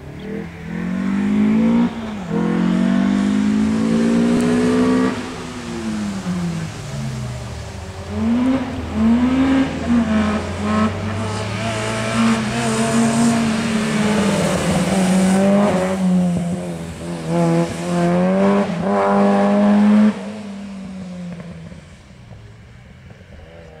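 Peugeot 205 Rallye's four-cylinder petrol engine accelerating hard up a hillclimb. The pitch climbs and drops at gear changes about 2 and 5 seconds in, then falls and rises repeatedly through the bends before fading as the car pulls away near the end.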